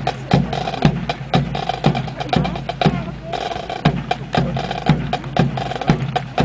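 Drum cadence accompanying a rifle drill, with strong low beats about twice a second and sharp clacks of rifles being handled in between.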